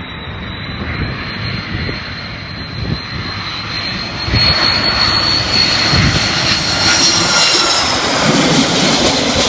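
Airbus A330 twin-engine jet airliner on its landing approach: jet engine noise with a thin, steady high whine, growing louder about four seconds in.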